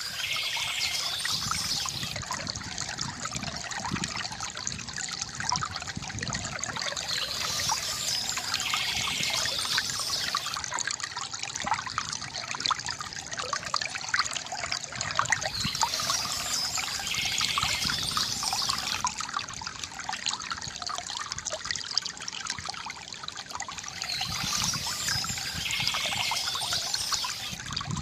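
Stream water trickling steadily, with birdsong coming back about every eight seconds.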